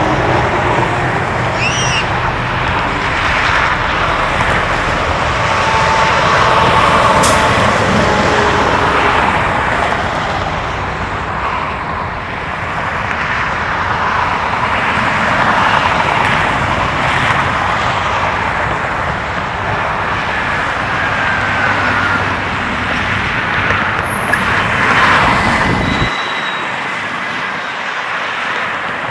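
Steady road traffic noise, a continuous rush of passing vehicles, with the low rumble dropping away near the end.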